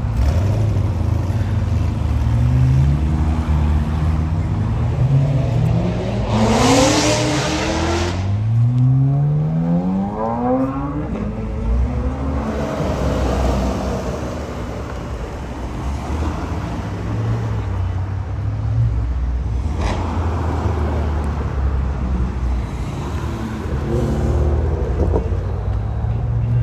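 A car engine accelerating hard, its pitch climbing three times in a row as it shifts up through the gears, with a loud rasp at the second climb. Low steady engine rumble follows.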